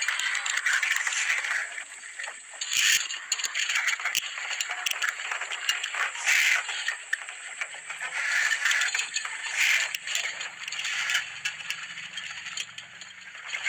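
Hissing, crackling noise with a rattling texture that swells and fades every few seconds, with sharp clicks. It is presented as a recording of the sound from deep inside the Earth.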